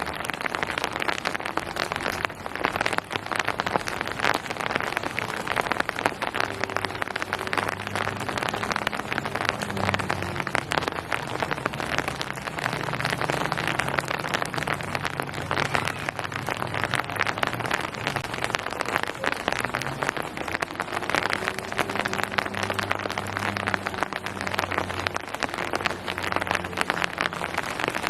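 Steady rain falling on surfaces, a dense, even patter of drops, with a faint low hum underneath at times.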